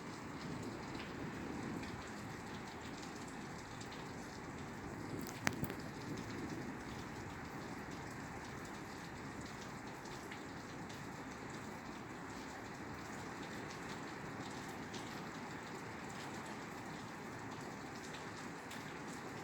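Steady rain falling on a roof, a dense even patter with scattered individual drop ticks. About five and a half seconds in, one sharp click stands out above the rain.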